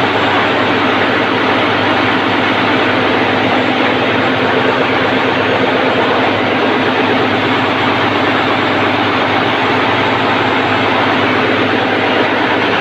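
Daihatsu 6 DL 19 six-cylinder marine diesel auxiliary engine (ship's generator) running steadily at constant speed, a loud, even engine-room roar with a low drone underneath.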